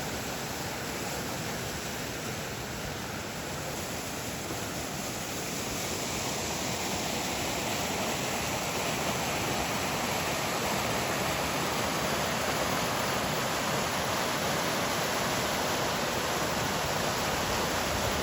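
Small waterfall pouring into a creek pool, a steady rushing of water that grows somewhat louder partway through.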